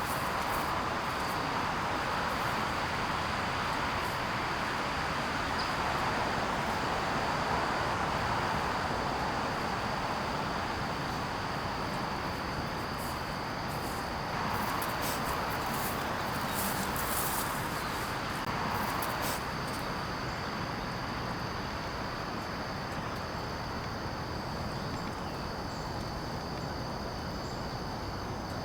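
Garden ambience with a steady, high insect drone over a broad hiss that swells and eases. Scattered light clicks or rustles come through the middle.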